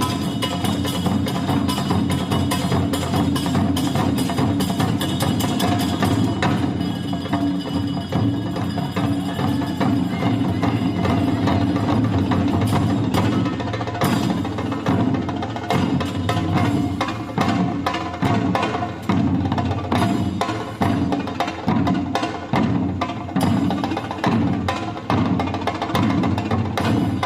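Traditional Japanese percussion music played live: fast, steady drumming made of many sharp strikes.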